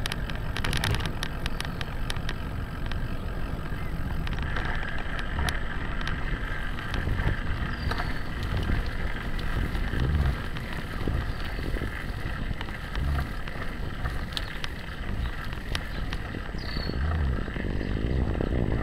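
Bicycle rolling along a road, heard from a camera strapped to the handlebars: steady tyre and road noise with frequent small rattles and knocks from the mount, and low wind rumble on the microphone.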